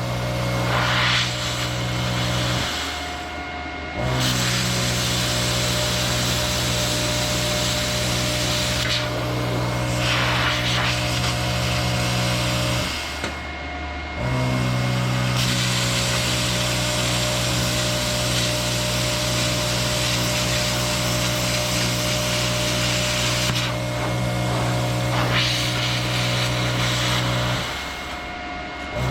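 Hobart 110 plasma cutter with its built-in air compressor cutting sheet steel: a steady hiss over a low machine hum. It stops for about a second three times, near the start, about halfway and near the end, as the cut is paused and restarted.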